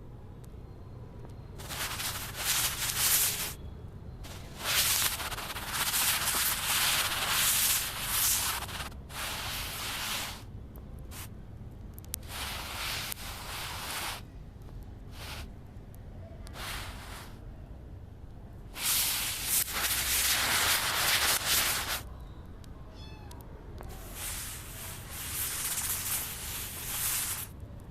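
Kitten meowing, about six loud bouts of calling with short pauses between them.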